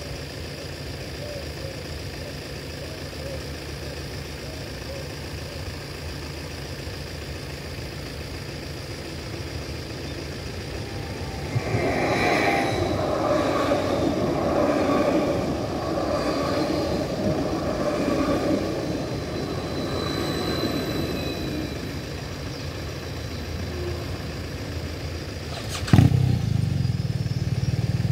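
A Stadler FLIRT electric train passes over the level crossing starting about 11 seconds in: wheel-and-rail noise with a steady whine over it, dying away over about ten seconds. Before it a vehicle engine idles at the closed barriers, and near the end a sharp click is followed by a louder low engine rumble.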